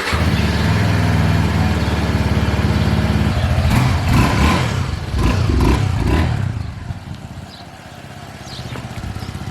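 Motorbike engine running at a steady idle, then revved unevenly several times from about three and a half seconds in, dropping back quieter about seven seconds in before picking up again near the end.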